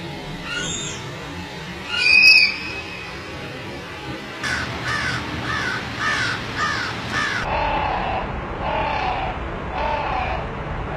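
Birds calling. A few separate calls are followed by a loud harsh call about two seconds in. Then comes a quick run of about six repeated call notes, and after a sudden change partway through, a lower call repeated about once a second.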